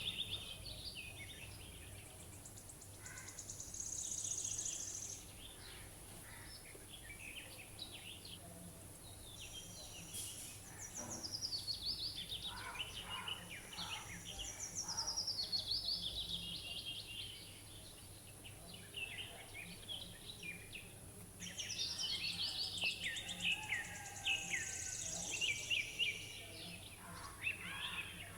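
Birds calling outdoors: repeated runs of quick, falling chirps and twitters that come and go in several bouts, over a steady high-pitched hiss.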